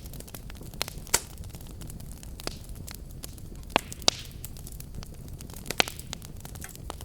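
Wood fire burning in a fireplace with a steady low rumble and irregular crackles and pops, a few of them sharper, around a second in and near four and six seconds in.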